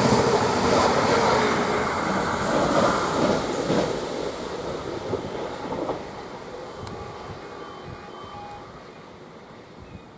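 Greater Anglia Class 755 train passing through the station. Its loud running noise fades away over the first six seconds as it recedes, leaving a quiet background.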